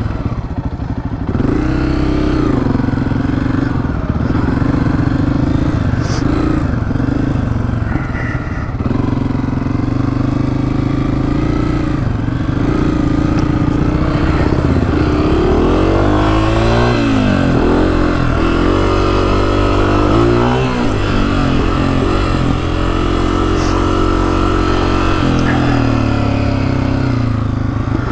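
Honda CRF250F's single-cylinder four-stroke dirt bike engine running under way. The engine runs fairly steadily for the first half, then the revs rise and fall several times in quick succession about halfway through before settling again.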